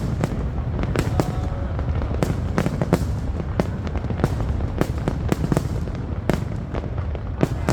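Fireworks going off: a rapid, irregular series of sharp bangs over a steady low rumble of more distant bursts.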